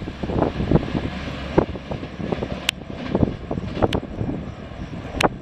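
Low, uneven rumble of an approaching train, with irregular thumps and three sharp clicks in the second half.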